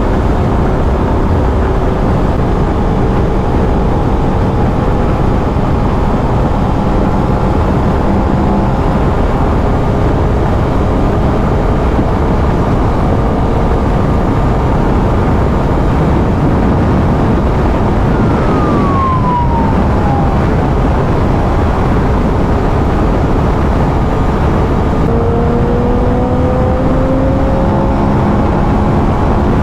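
2023 Aprilia RS 660's parallel-twin engine on its stock exhaust running at highway cruising speed, mostly covered by heavy wind rush. A short falling tone comes a little past the middle, and the engine pitch rises near the end.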